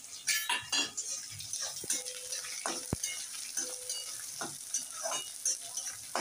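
Sliced onions sizzling in hot oil in a metal kadhai, with a metal spatula repeatedly scraping and stirring them against the pan.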